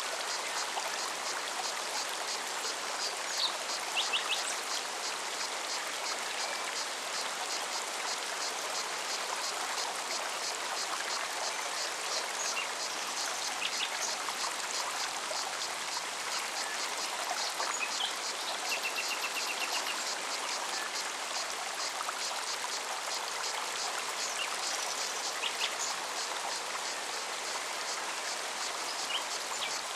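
Mountain forest stream running steadily, with a cicada's fast, regular pulsing song throughout. A bird chirps now and then, with a short trill about two-thirds of the way in.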